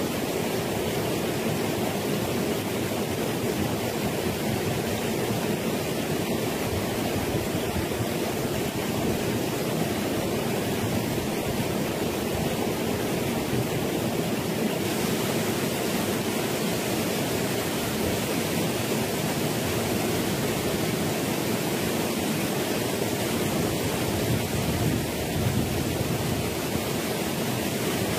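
Steady rushing of a fast stream tumbling over rocks and a waterfall, an even roar of water with no break.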